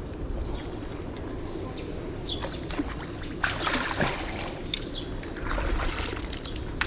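Water splashing in two short bursts, with a few bird chirps, over a steady low rumble.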